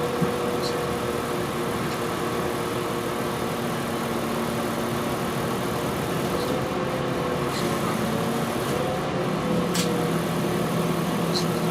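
Interior of a Class 4000 diesel multiple unit on the move: a steady drone of engine, transmission and running noise with several held tones, one of them wavering in pitch. A few sharp clicks sound through it, and a low tone grows stronger about nine seconds in.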